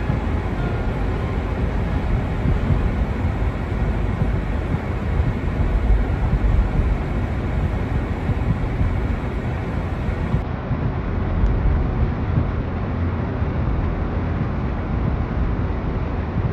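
Wind buffeting the microphone: a steady low rumble that swells and eases, with no clear tones.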